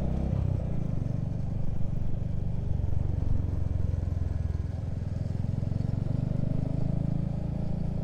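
Motorcycle engine running steadily while riding, with road noise and a couple of brief louder knocks in the first few seconds.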